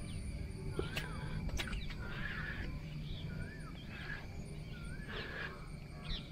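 A bird calling over and over, the same short rising-then-falling phrase about once every second and a half, over a steady low rumble of wind and water. Two sharp clicks come about a second in.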